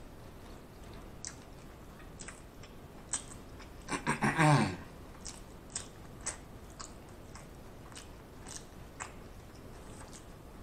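Close-miked chewing of a Big Mac: wet mouth clicks and smacks every half second or so. About four seconds in there is a short vocal hum from the eater, falling in pitch.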